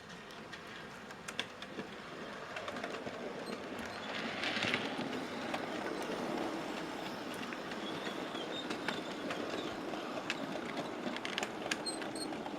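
OO gauge model trains running on the layout: a steady rumble of locomotive motor and wheels on the track, with scattered clicks as the wagons roll over rail joints, growing louder about four seconds in.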